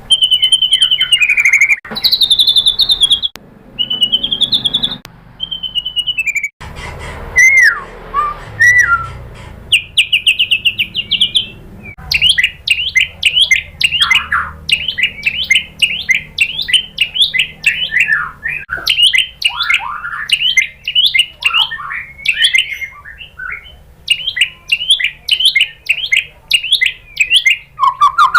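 White-rumped shama singing loud, clear whistled phrases that slide up and down. From about twelve seconds in come fast runs of short, sharp repeated notes, one burst after another.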